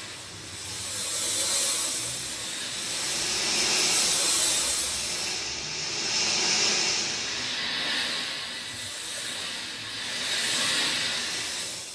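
Steady rain falling, an even hiss that swells and eases in slow waves every few seconds.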